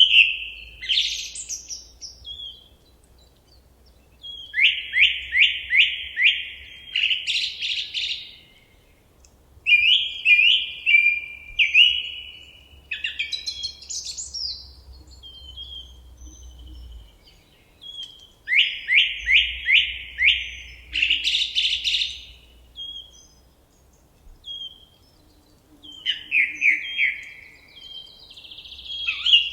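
A songbird singing in repeated phrases, about every seven seconds. Each phrase is a quick run of falling notes that ends in a higher flourish, with short single notes between phrases.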